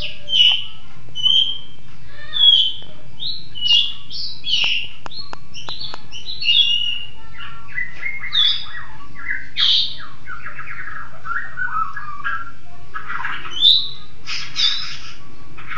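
A bird calling: a varied, almost unbroken string of short, sharp chirps, with a stretch of harsher, scratchy notes in the second half.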